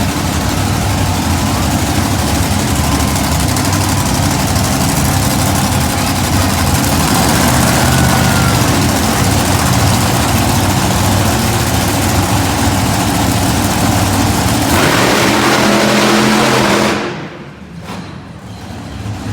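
Monster truck engines running loud under power, a dense steady din that drops away sharply for a couple of seconds near the end before picking up again.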